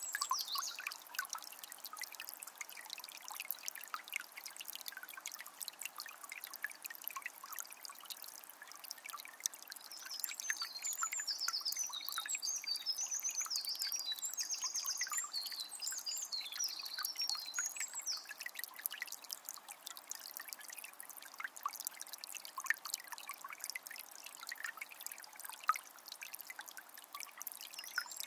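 A calm forest river trickling and splashing steadily. A small bird sings quick, high chirping phrases at the very start and again from about ten to seventeen seconds in.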